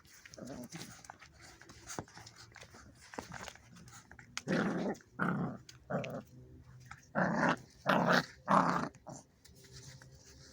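Aggressive dog growling and barking: softer sounds at first, then six loud, short barks in two sets of three from about four seconds in.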